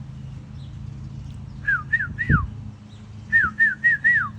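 A run of short whistled notes, each sliding downward, three in quick succession and then, after a pause, four more.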